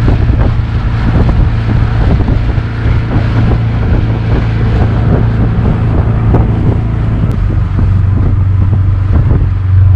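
An engine running steadily with a constant low hum, with wind buffeting the microphone.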